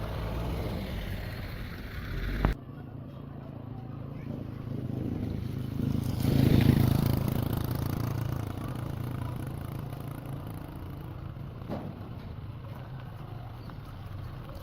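Honda CR-V driving on a test drive after its repair: engine running with road noise, swelling to its loudest about six to seven seconds in as the car passes, then easing off. There is an abrupt break in the sound about two and a half seconds in.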